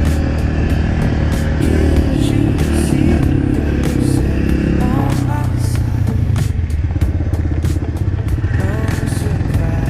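Dirt bike engine running, its pitch rising and falling every few seconds.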